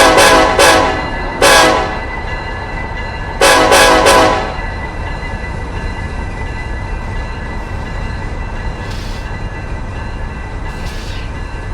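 Locomotive air horn sounding a series of short chord blasts, the last three run together about three and a half seconds in, followed by the steady low rumble of the train rolling past.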